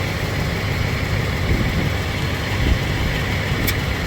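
A 2006 Ford Mustang GT's 4.6-litre V8 idling steadily, heard close by at the front wheel. A short sharp click comes near the end.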